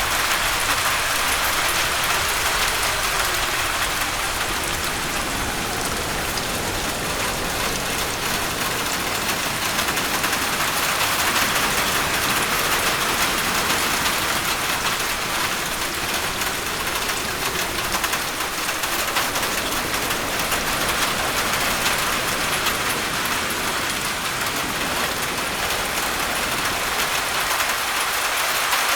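Steady heavy rain pattering on a roof, a dense even hiss that swells a little and eases now and then.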